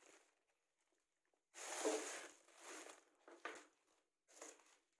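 Faint rustling and crinkling of plastic packaging and kit parts being handled, in three short bouts, the longest about a second and a half in.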